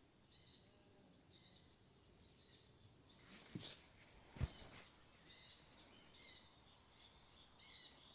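Faint birdsong: short high chirps recurring every second or so over a quiet outdoor background, with two brief soft knocks near the middle.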